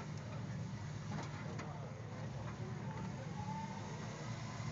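Rock crawler's engine running steadily, with faint voices in the background.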